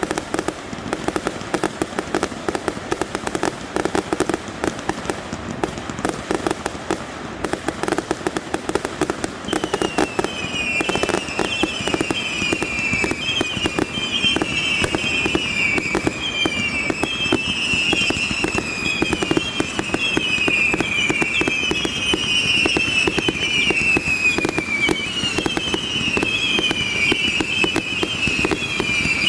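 Fireworks display: a dense run of bangs and crackling, joined about a third of the way in by a long chorus of high, falling whistles from whistling fireworks that overlap and keep repeating to the end.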